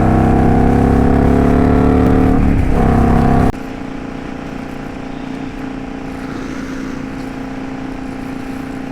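Indian Scout Bobber's V-twin engine running at highway speed, its pitch rising slightly. A little over a third of the way in the sound drops suddenly to a quieter, steady engine drone.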